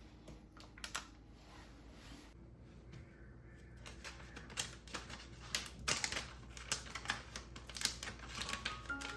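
Quick, light clicks and taps, sparse at first and busier from about four seconds in.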